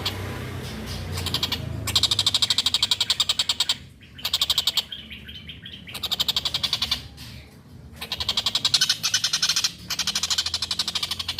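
Tengkek buto (collared kingfisher) calling in rapid rattling bursts, about a dozen sharp notes a second. The bursts come in repeated bouts of one to two seconds with short pauses between them.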